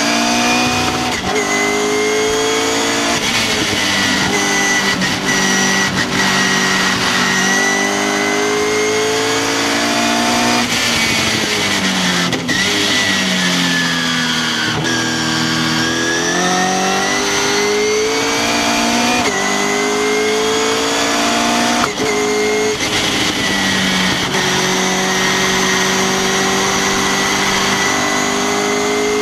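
Track car's engine heard onboard from an open cockpit under hard acceleration. Its pitch climbs and drops back at each gear change, and it winds down a few times under braking for corners, with wind rushing past the open car.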